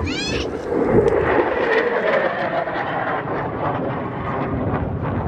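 Thunderbirds F-16 jet engine noise, a loud rushing roar that swells about a second in and holds steady as the jet flies by. A short rising bird chirp is heard at the very start.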